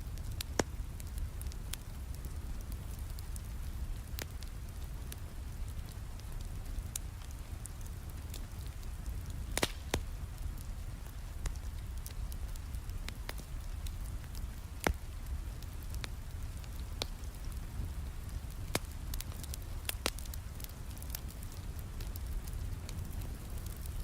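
Wood fire crackling in a fireplace, with irregular sharp pops, over a steady low rumble and the soft hiss of rain.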